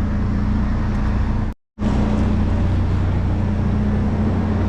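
Vehicle engine running steadily with a constant low hum and road or engine noise. The sound cuts out completely for a moment about one and a half seconds in, then resumes unchanged.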